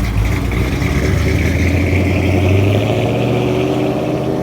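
A car's engine running as it pulls away, its low rumble fading near the end.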